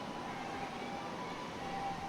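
Steady wind noise with a faint, distant two-tone siren alternating between two pitches.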